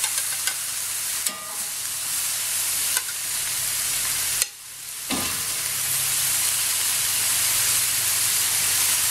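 Stir-fried chicken and vegetables sizzling steadily in a wok over a gas flame, with a few sharp clicks of a spatula against the wok. The sizzle drops out briefly about halfway through.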